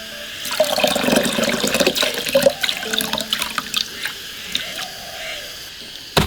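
Water splashing and sloshing in a basin, with irregular small splashes and knocks, like hands washing food in water.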